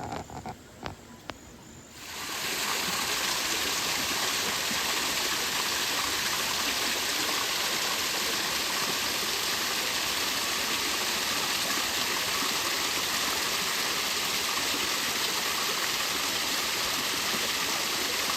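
Loud, steady rush of flowing water that starts abruptly about two seconds in, after a few faint clicks.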